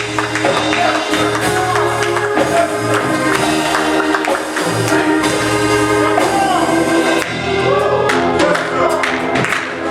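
Gospel praise music: sustained chords with singing voices over light percussion.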